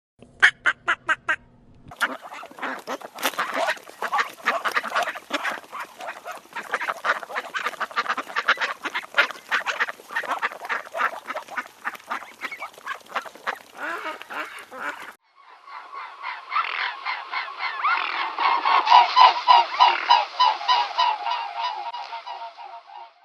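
Waterfowl calling in a flock, many overlapping honks and quacks, in several joined recordings that change abruptly at about 2 seconds and again at about 15 seconds, the last part louder.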